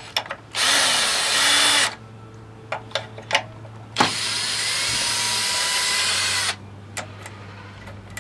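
A power tool running in two bursts, about a second and two and a half seconds long, as it works loose the cylinder head bolts on a lawnmower engine. Small clicks of tool handling come between the bursts.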